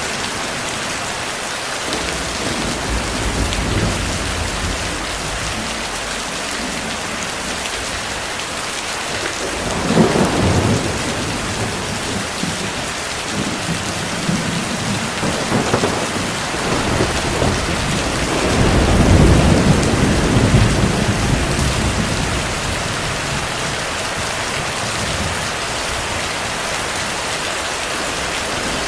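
Steady heavy rain hissing on a surface, with thunder rolling through it. A sharper crack comes about ten seconds in, and a longer low rumble follows about two-thirds of the way through.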